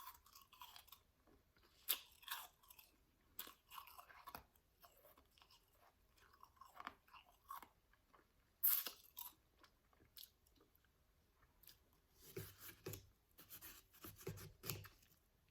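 Close-up chewing and crunching of soft, powdery shaved ice in the mouth, in irregular crunches; the sharpest comes about nine seconds in, and a quick run of crunches follows near the end.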